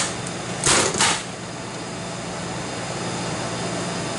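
Steady hum of a portable air conditioner running in a small room, with three short hissing rustles in the first second or so.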